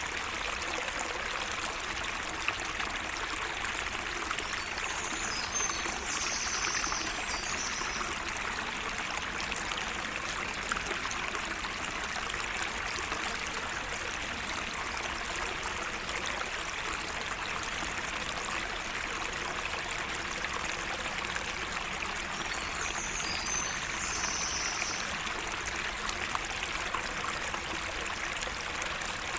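A small garden waterway running steadily. A bird sings briefly and high twice, about six seconds in and again about twenty-three seconds in.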